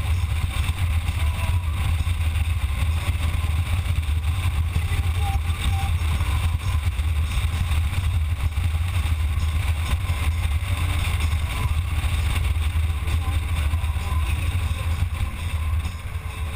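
Motorcycle engine running steadily under way, with road and wind noise; it gets a little quieter near the end.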